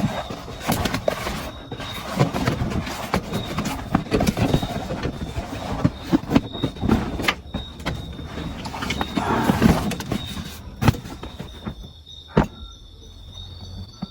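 Irregular rustling, clattering and knocking handling noise for about eleven seconds, over a steady high insect trill. After that the handling dies down, one more sharp knock sounds, and the insects chirring in the forest are left alone.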